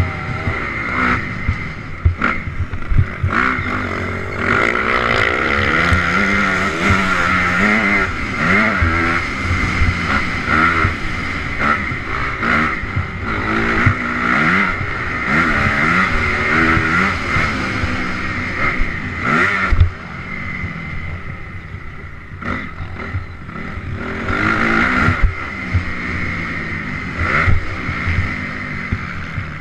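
Honda CRF 250R single-cylinder four-stroke dirt bike engine being ridden hard off-road, its revs rising and falling over and over with the throttle. Sharp knocks are scattered through it, and it eases off briefly about two-thirds of the way in.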